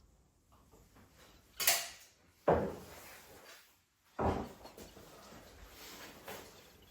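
Three sudden knocks and clatters, about a second apart, of something being handled: a sharp swish, then two heavier clunks that ring out briefly.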